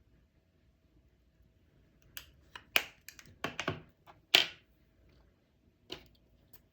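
Makeup containers and tools being handled: a quick run of sharp clicks and taps about two seconds in, the loudest two close together, then one more click near the end.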